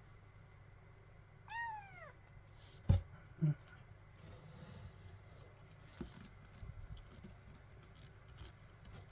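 A kitten mews once, a short call falling in pitch, about a second and a half in. Two sharp thumps follow a second later, then light rustling and a knock.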